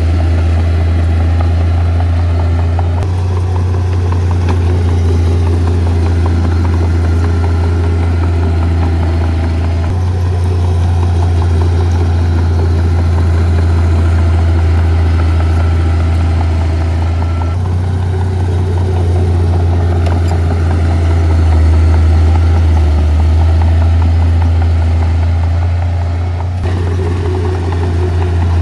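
Heavy diesel engines of earth-moving machines (bulldozer and dump trucks) running steadily with a deep low drone and some clatter. The tone shifts abruptly a few times.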